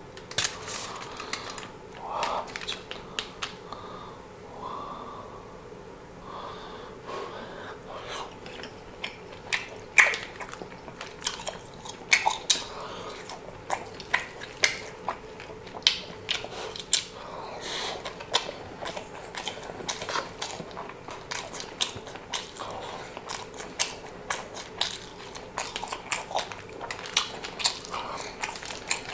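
Close-up eating sounds: biting and chewing food, with frequent short sharp clicks and wet mouth noises.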